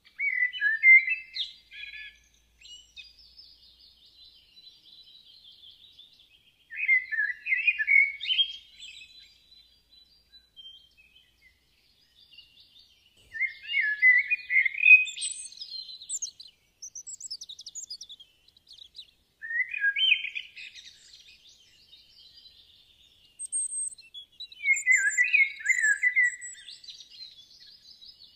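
Birds singing: a louder chirping phrase comes about every five or six seconds, with softer high twittering between.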